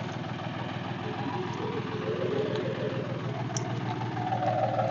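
A tractor's diesel engine running steadily at low revs.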